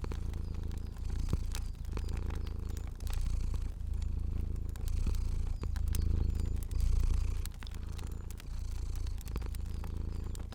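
Domestic cat purring, a low rumble that swells and eases about once a second with each breath in and out, over the scattered sharp pops and clicks of a crackling fire.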